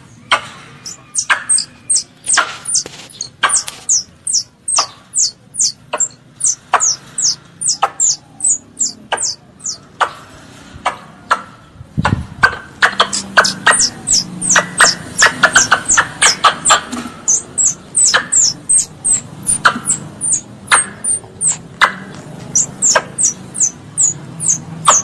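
A young squirrel calling for its mother: a rapid series of short, high chirps, each falling sharply in pitch, about two or three a second, with a short break in the chirping about halfway through.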